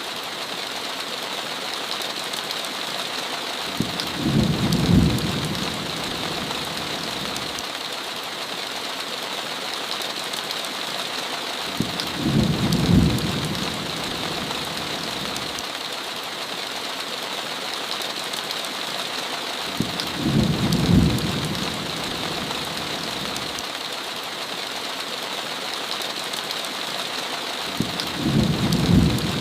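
Steady heavy rain hissing throughout, with a low rumble of thunder swelling and fading four times, about every eight seconds.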